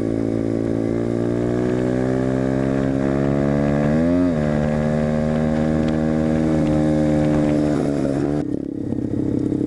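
Small off-road motorcycle engine running while riding, its pitch climbing slowly as it accelerates, with a quick rev up and back down about four seconds in. It then holds steady and changes note near the end.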